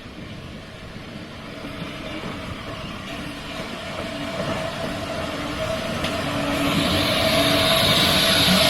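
A train approaching and getting steadily louder, with a steady hum under a rising rush of running noise.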